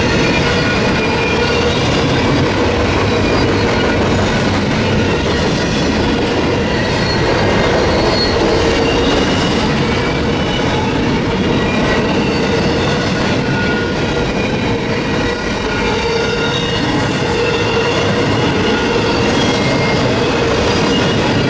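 Freight train cars rolling past at steady speed, the wheels rumbling and clacking over the rails with thin, wavering wheel squeal.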